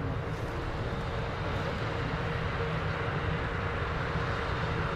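Combine harvesters harvesting corn: a steady drone of engines and threshing machinery with a faint constant whine through it.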